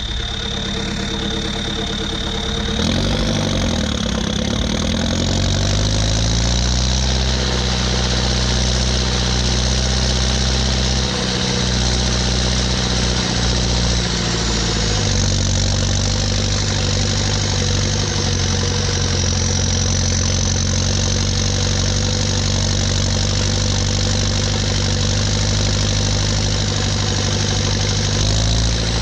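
Ursus 1014 tractor's four-cylinder turbo diesel running on a straight-pipe exhaust under load. The engine speed climbs over the first several seconds, then holds steady, easing slightly lower about halfway through, with a faint turbo whistle above the exhaust note.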